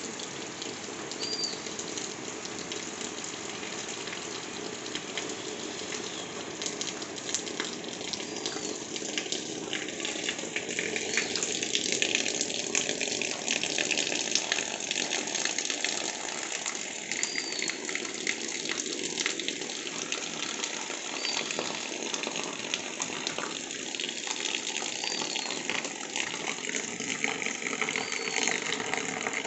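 Steady rain, with a thin stream of runoff water splashing and pattering onto a sheet of corrugated metal, dense with fine drop ticks. A short high chirp recurs several times.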